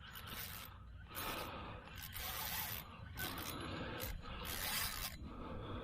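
Fishing reel ratcheting in about six short bursts while a hooked fish fights on the line.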